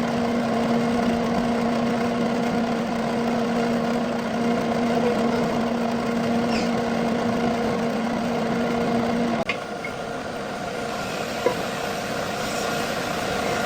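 Lathe machining a metal pulley: the machine runs with a steady hum that cuts off suddenly with a click about nine seconds in. A steady machine noise carries on after, with one sharp tick.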